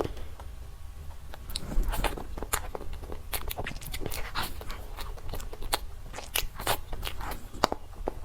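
Close-miked eating: a person biting and chewing dessert, with many quick, crisp clicks and crunches.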